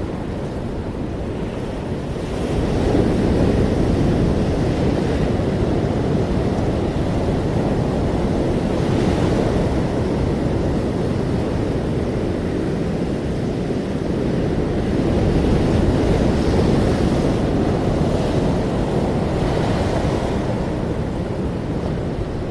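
Ocean waves breaking and washing on a shore in a continuous deep rushing, swelling louder about two seconds in and again near the middle, with wind rumbling on the microphone.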